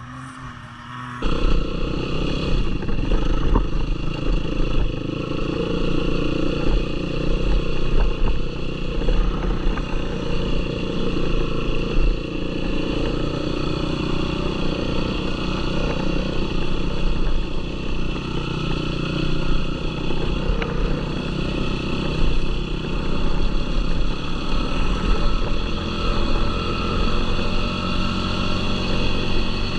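Yamaha YFZ450R sport ATV's single-cylinder four-stroke engine running under throttle while riding. It comes in suddenly about a second in, and its note rises and falls with the throttle.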